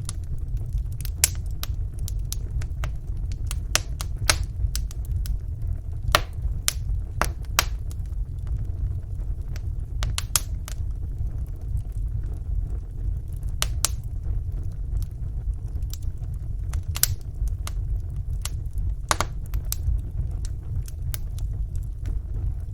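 Wood fire burning in a fireplace: a steady low rumble with irregular small crackles and pops from the burning logs, one or two a second.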